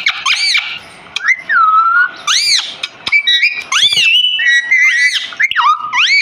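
Rose-ringed (ring-necked) parakeet whistling: a quick run of high rising-and-falling whistled calls, with a few short held notes and chirps in between.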